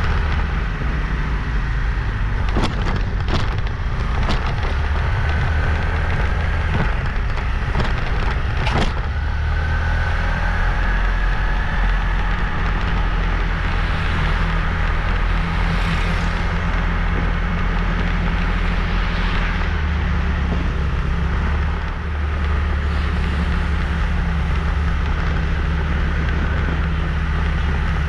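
Motorbike engine running steadily under way, with road and wind noise, and a handful of sharp knocks or rattles a few seconds in and once more around nine seconds.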